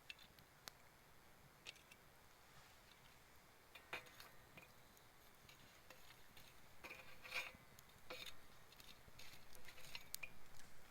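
Faint wood fire of fallen branches crackling, with scattered sharp pops and snaps at uneven intervals and a small cluster of them just past the middle.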